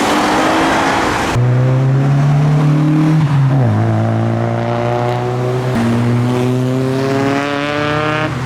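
Car engine accelerating as it passes, its note rising steadily. The pitch drops at a gear change about three and a half seconds in, then climbs again.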